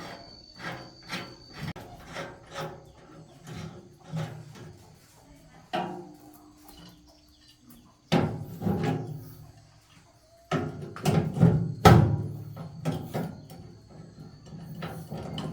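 Irregular knocks and clatter of hand work on metal machine parts, some strikes ringing briefly, with the loudest run of knocks in the second half.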